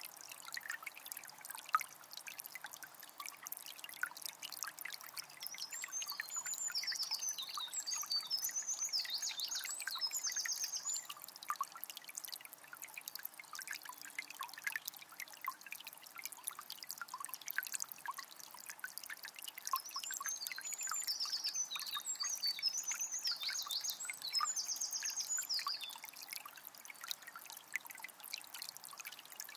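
A calm forest river flowing and trickling steadily, with small splashes and babbling. A bird sings a twittering, trilled phrase twice over the water, the second about fourteen seconds after the first.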